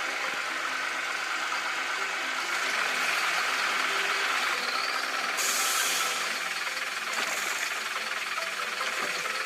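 Heavy construction-vehicle engine running steadily, as a cartoon sound effect, with a short hiss of air about five and a half seconds in.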